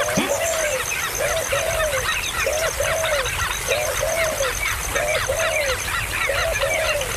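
Birds calling: a low two-note call repeats about every second, over a dense chorus of many short, high chirps.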